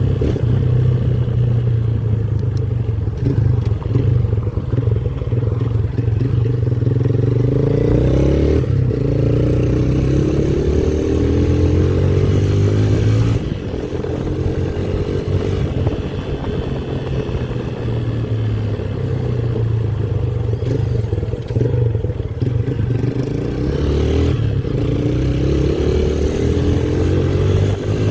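Motorcycle engine running under way, its pitch rising and falling as the bike accelerates and eases off, with a sudden drop in loudness about halfway through.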